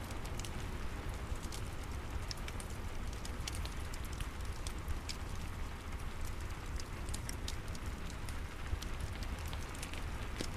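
Steady rain falling, mixed with a fireplace crackling in many small, irregular sharp pops, over a low steady rumble.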